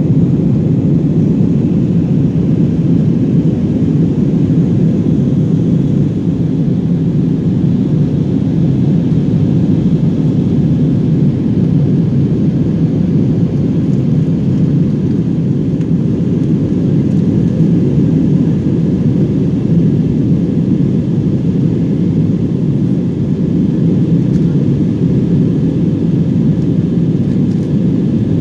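Steady low rumble inside the cabin of an Airbus A321-200, from its engines and the airflow, holding at an even level with no change in pitch.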